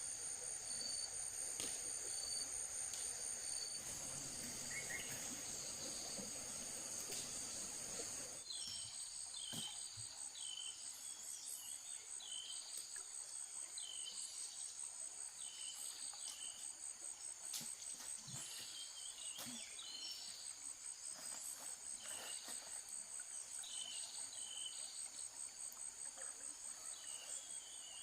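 Insects trilling in a steady, high, finely pulsing chorus. About a third of the way in, short chirps join it, one every second or so. Before then a low rustling haze sits under the trill and stops abruptly.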